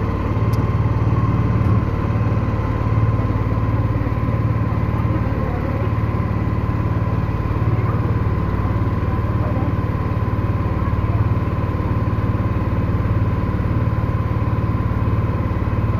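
Boat engine running steadily at a constant speed, a low even drone with no revving.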